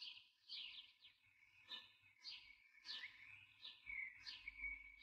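Faint bird chirping over near silence: short high calls sliding down in pitch, repeating about every two-thirds of a second.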